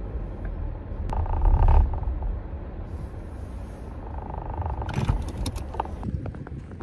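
Car driving on snowy roads: a steady low engine and road rumble that swells briefly about one and a half seconds in, with two short steady tones and a few light clicks near the end.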